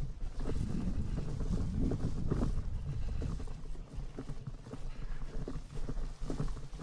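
Irregular close-up knocks, clicks and rustles of hands-on yard work, over a steady low rumble.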